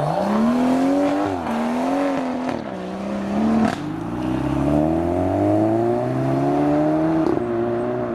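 Car engine accelerating hard, its pitch climbing with some wavering, then dropping with a sharp crack about three and a half seconds in at a gear change before climbing steadily again.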